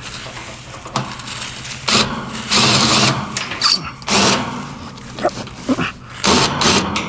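A small power tool running in several short bursts, the longest about a second and a half.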